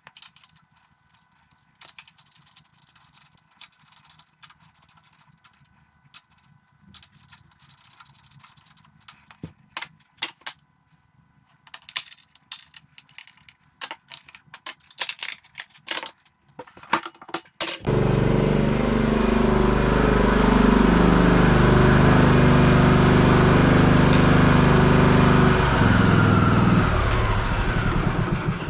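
Scattered light clicks and knocks, then a riding mower's Briggs & Stratton engine comes on suddenly more than halfway through and runs loudly for about ten seconds, its pitch stepping up and down, before cutting off at the end.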